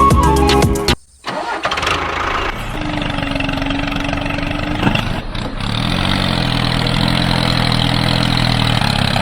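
Music cuts off about a second in. Then an engine-like motor starts up with a whirring tone and settles into a steady running idle.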